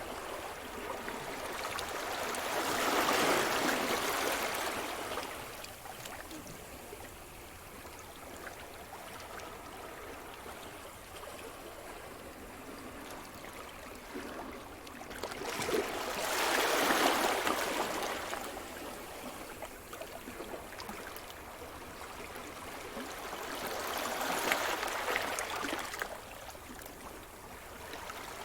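Sea surf: waves breaking and washing up the shore, three swells of rushing water about 3, 17 and 25 seconds in, with a softer steady wash between them.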